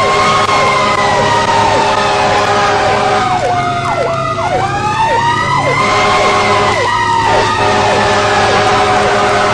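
Fire truck siren wailing slowly, falling in pitch to a low point about four seconds in, then rising again and slowly falling. A second siren yelps quickly over it, with a steady hum beneath.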